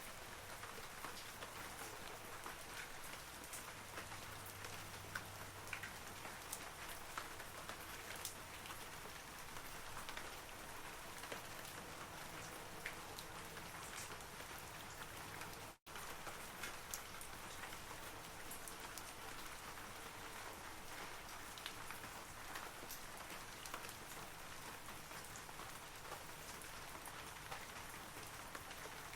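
Steady rain falling on forest trees, an even hiss with many separate drop ticks. The sound cuts out completely for a split second about halfway through.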